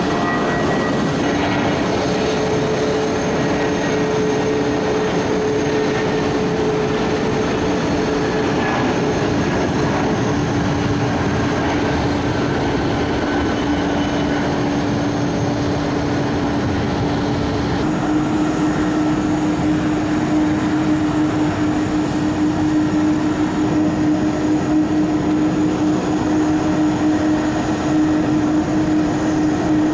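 Steady, loud mechanical drone of a vehicle with a constant hum, changing abruptly about 18 seconds in.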